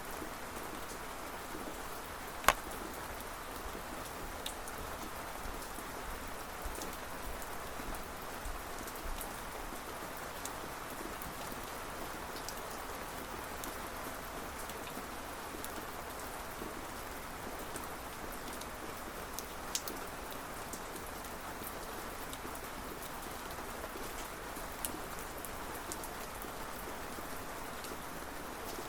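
Steady rain with scattered sharp drops tapping close by. The loudest drop lands about two and a half seconds in.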